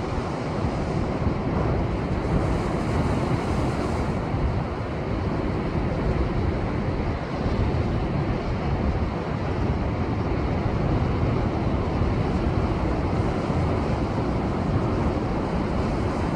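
Rough, typhoon-driven surf washing against a rocky shore: a continuous, steady rush of breaking waves, with wind buffeting the microphone.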